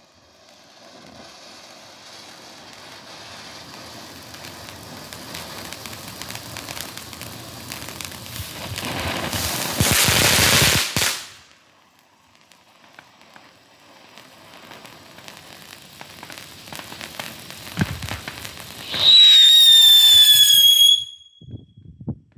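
Novelty tank-shaped consumer firework going off. A hissing spark fountain builds for about eleven seconds and then stops, followed by a few seconds of crackling. Then its motor gives a loud whistle, falling slightly in pitch, for about two seconds before cutting off.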